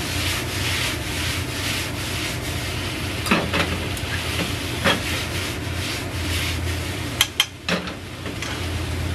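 Galunggong fish pieces and sliced peppers sizzling in a frying pan over a gas flame while the pan is tossed and the food stirred with wooden chopsticks. A few sharp clicks of the chopsticks against the pan come around the middle and a quick cluster near the end.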